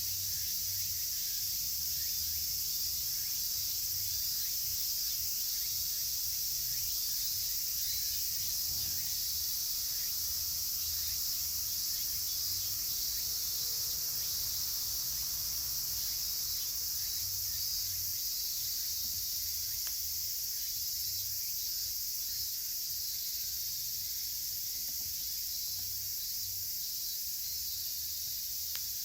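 Dense, steady chorus of cicadas, high-pitched and unbroken, with faint crackles from a wood campfire.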